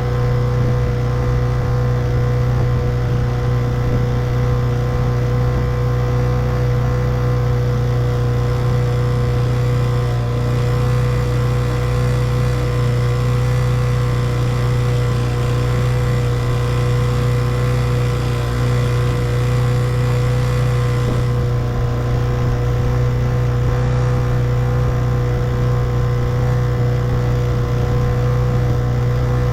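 Small 1958 Evinrude 3 hp two-stroke outboard motor running at a steady throttle, a constant low hum with no change in speed.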